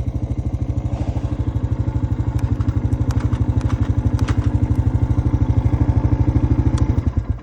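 Honda Foreman ES ATV's single-cylinder four-stroke engine running steadily under throttle, its exhaust pulsing evenly, with a few sharp clicks and knocks from the machine over the snow partway through. The engine sound drops away suddenly near the end.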